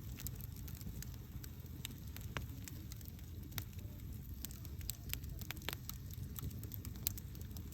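Campfire burning: a steady low rumble of flames with frequent sharp crackles and pops at irregular intervals. One louder pop comes near the end.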